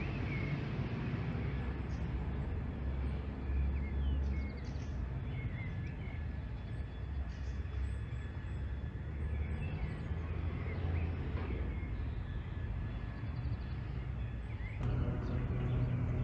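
Outdoor ambience: a steady low rumble with small birds chirping now and then.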